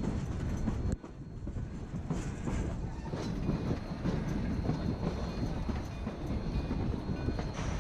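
Narrow-gauge passenger train rolling on its track: a steady low rumble of wheels on rails with scattered clicks and knocks from the cars. There is a brief dip in level about a second in.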